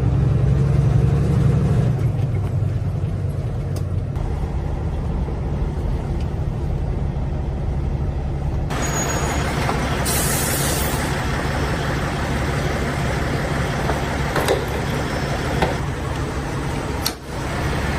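Semi truck's diesel engine running steadily, its note changing about two seconds in, with louder road noise from about nine seconds. A short air brake hiss comes about ten seconds in.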